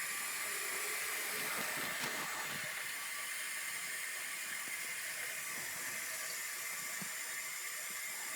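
Water running steadily into a hose-end sprayer canister, filling it toward its 32-ounce top mark.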